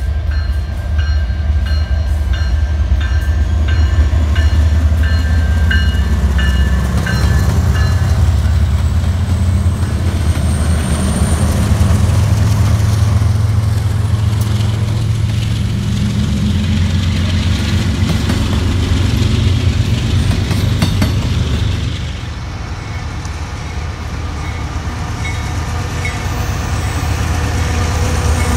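Diesel freight trains passing close by: a deep locomotive rumble with the steady rolling noise of double-stack container cars, and several steady high tones during the first eight seconds or so. The sound dips briefly a little past the middle, then Union Pacific diesel locomotives rumble past near the end.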